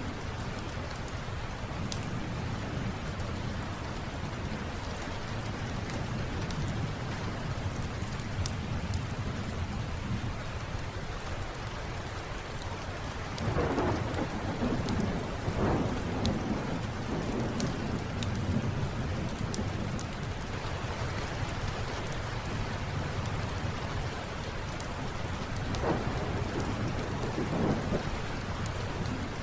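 Steady rain with rolling thunder, which swells into louder rumbles about halfway through and again near the end. Small sharp crackles of a wood fire are scattered throughout.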